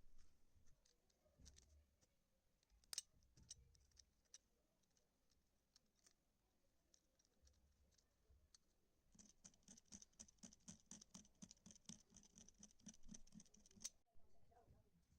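Faint hand-tool work on a shoe during a heel repair: scattered light clicks and taps, then a quick run of rhythmic strokes, about five a second, for several seconds, stopping sharply near the end.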